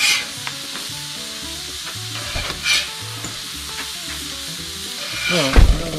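Food sizzling steadily on a hot buttered grill griddle, with a few brief louder crackles. A low thump comes near the end.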